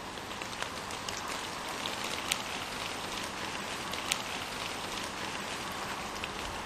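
Steady rain falling, an even hiss with scattered sharp taps of single drops; two louder taps about two and four seconds in.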